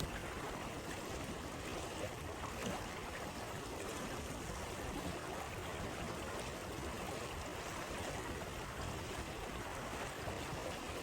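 River water flowing steadily, with a few faint pops of a crackling campfire, the clearest about two seconds in.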